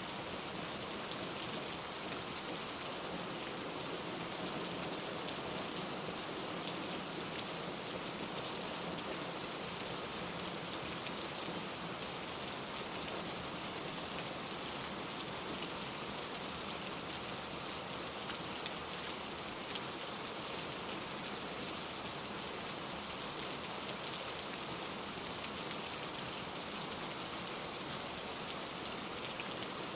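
Steady rain falling on a surface: an even hiss with a fine patter of drops.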